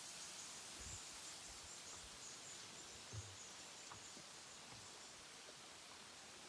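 Faint forest ambience: a high, steady, pulsing trill over a soft hiss, with a few soft low thumps, the clearest about three seconds in.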